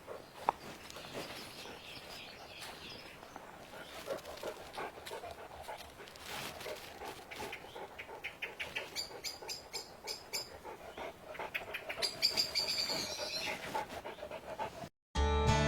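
A dog panting close by, with a bird giving quick runs of high repeated calls twice in the second half. Near the end it cuts to strummed acoustic guitar music.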